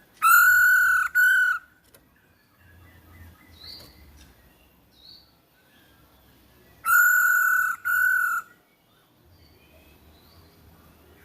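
Poksay hongkong calls played as a lure: two loud double calls about six seconds apart, each a pair of held, buzzy notes at one pitch that dip slightly at their ends. Faint short chirps come between them.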